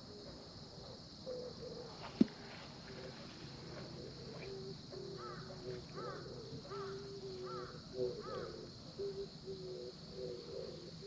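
Outdoor bird and insect ambience: a bird gives a run of five short rising-and-falling calls in the middle, over a steady high insect drone. A single sharp click sounds about two seconds in.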